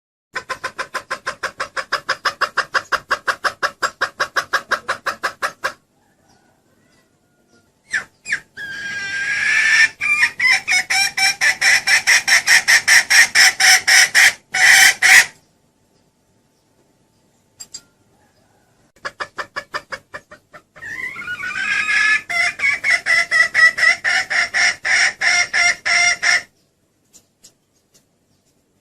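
Junglefowl hen calling: three bouts of rapid, evenly repeated clucks, the second and third building in loudness, with silence between bouts. A hen call of the kind hunters play as a lure to bring a rooster in.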